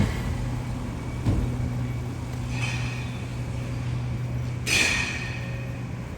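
City street ambience on a rain-wet street: a steady low vehicle hum, with two short hisses, the louder one about five seconds in.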